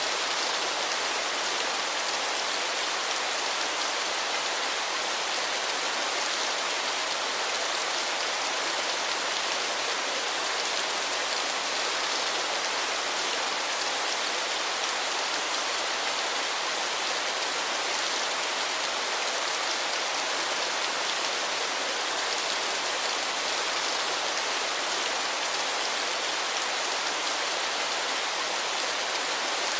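Waterfall: a steady, unchanging rush of falling water, a bright hiss with little deep rumble.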